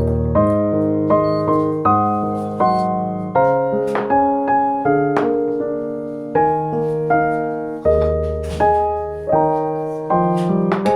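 Background music: a gentle piano piece playing notes and chords at an even, unhurried pace.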